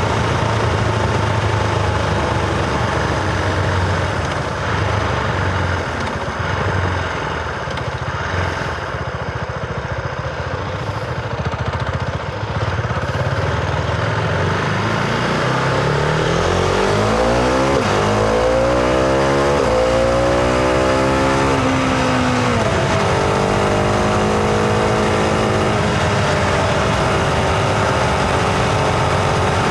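Husqvarna Vitpilen 701's single-cylinder engine heard from onboard the motorcycle. It runs steadily at first, then about halfway through accelerates, the pitch climbing through two or three gears with a quick drop at each shift. It then settles into steady cruising.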